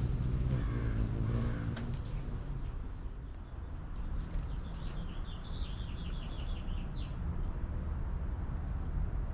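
A small bird gives a quick, even run of high chirps for about two and a half seconds midway, ending on a short rising note, over a steady low rumble of traffic.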